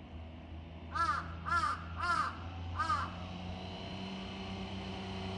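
A crow cawing four times over about two seconds, each caw a short, harsh arched call.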